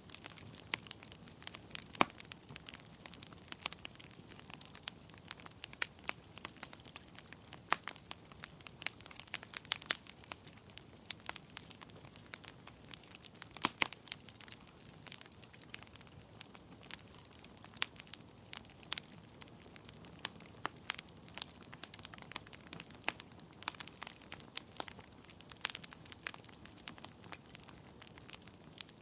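Wood fire in a fireplace: logs crackling with irregular sharp pops and snaps over a soft steady hiss of the flames.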